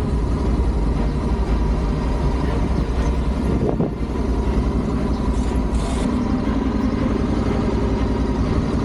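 Adventure motorcycle running steadily under way, a continuous low engine rumble, with a brief dip in level about four seconds in.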